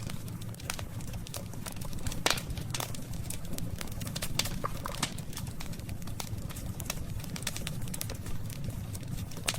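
Wood campfire crackling, with irregular sharp pops and snaps over a steady low rumble; one loud pop about two seconds in.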